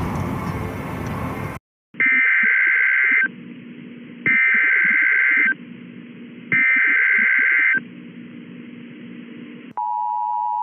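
Emergency Alert System broadcast: three loud bursts of the warbling two-pitch data header, each about a second long, then the steady two-tone attention signal starting near the end. Before them, a steady rushing noise cuts off abruptly.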